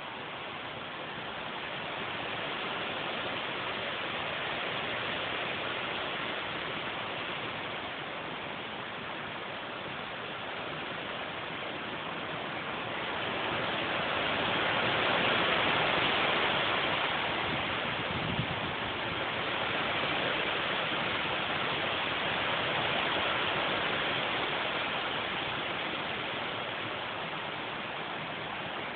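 Storm-force wind gusts from storm Irene, a steady rushing that swells into a stronger gust about halfway through, then eases and rises again.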